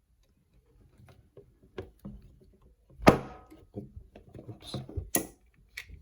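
Hard plastic parts of a Transformers action figure clicking and knocking as it is handled and transformed, with one louder knock about three seconds in.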